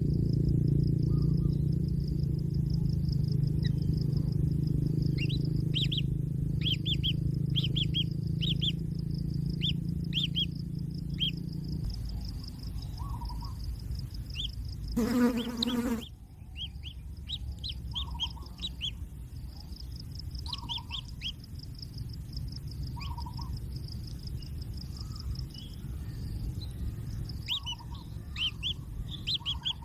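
Birds chirping in quick clusters of short, sharp, falling notes over a steady high insect drone. A low hum fades out partway through, and there is a brief burst of noise about halfway.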